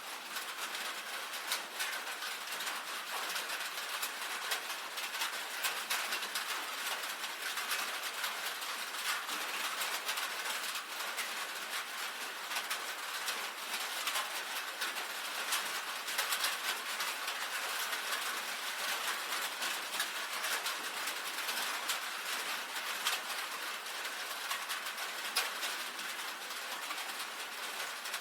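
Rain on a tin roof: a steady, dense patter of many small drop ticks on the metal.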